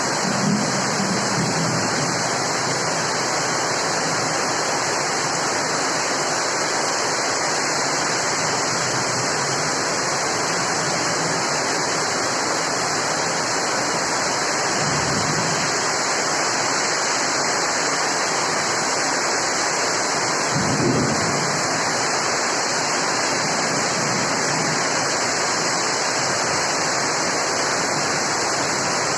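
Steady rain, an even unbroken hiss with a brief low swell about 21 seconds in.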